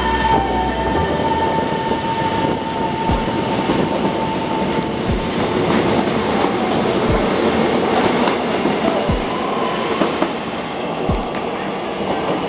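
Taiwan Railway EMU700 electric multiple unit pulling out of the station. A steady whine from its electric traction equipment fades out about five seconds in, while the cars run past with steady rolling wheel and rail noise. A low thud comes about every two seconds.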